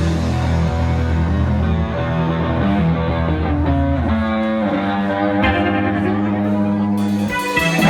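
Rock music played on guitars and bass: held guitar notes over a steady bass line, with a short break near the end before the band comes back in.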